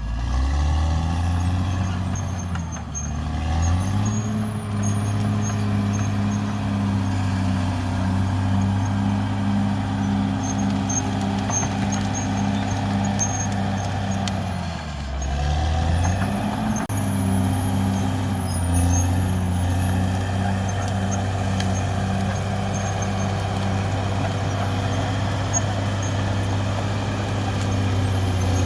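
Caterpillar D6R XL bulldozer's diesel engine running hard with a steady high whine over it. The engine note sags and climbs back twice, just after the start and about halfway through.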